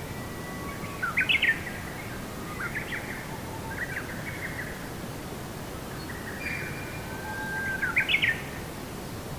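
Songbird singing: short phrases of held whistled notes ending in quick rising flourishes, loudest about a second in and again near the end, over a steady background hiss.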